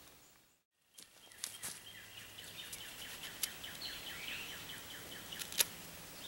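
Faint woodland ambience with a bird calling in a quick series of short falling chirps, a steady high tone and a few light clicks. The sound drops out completely for a moment just after the start.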